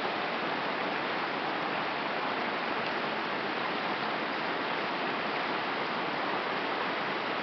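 Creek water running steadily, a constant even rush of water flowing over and around ice.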